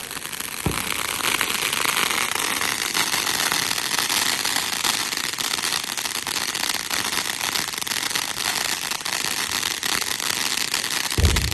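Fireworks crackling densely and continuously, a rapid patter of small pops, with a sharp thud about a second in and a heavier low boom near the end.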